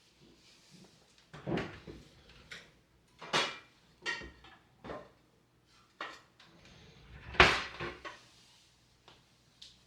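Household handling sounds in a small room: a series of separate knocks and clinks, about seven in all, the loudest about seven and a half seconds in.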